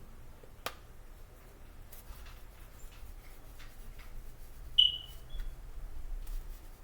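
Black pepper being shaken from its container over chicken in a pan: a few faint clicks and taps. A short high squeak about five seconds in is the loudest sound.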